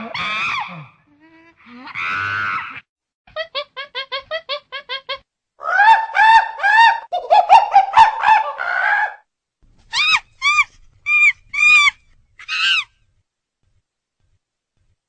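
Chimpanzee calls: a run of quick, evenly spaced hoots building into loud, high screams, then a few short separate shrieks before they stop.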